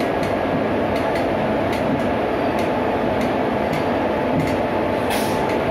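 Train running on the track: a steady rumble with faint regular clicks about twice a second, and a short hiss near the end.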